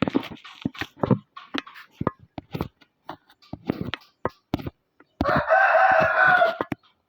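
A rooster crows once, about five seconds in, a loud call lasting about a second and a half. Before it come short, sharp clicks and knocks.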